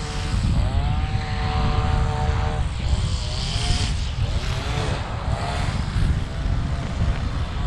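Wind rushing over the microphone of a moving bicycle, a steady low rumble throughout. Over it comes a pitched engine-like hum, steady for the first couple of seconds, then wavering in pitch through the middle.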